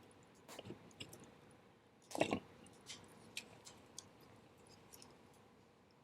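Wood fire crackling faintly, with scattered sharp pops and one louder cluster of crackles about two seconds in.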